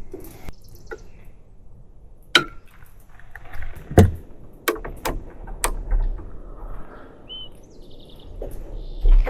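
Water being run from a side-mounted camp water tank into a French press, with sharp clicks and knocks as the tank tap and press are handled. A bird chirps briefly about two-thirds of the way through.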